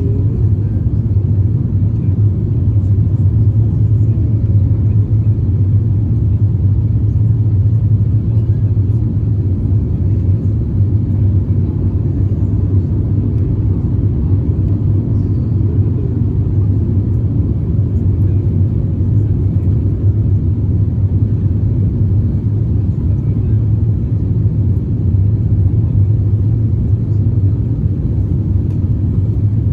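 Steady low rumble of engine and airflow noise heard inside the cabin of an Airbus A350-900 airliner.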